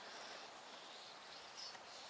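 Quiet garden ambience with a faint, short high bird chirp about three-quarters of the way through.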